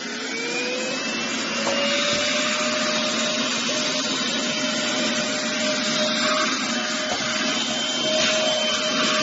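HONKYOB handheld mini cordless vacuum cleaner running: its motor whine is still rising in pitch for the first couple of seconds as it comes up to speed, then holds steady over a rushing hiss of air.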